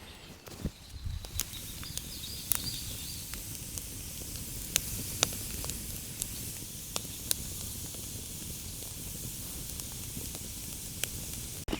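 Campfire burning: a steady hiss with scattered sharp crackles and pops of the burning wood.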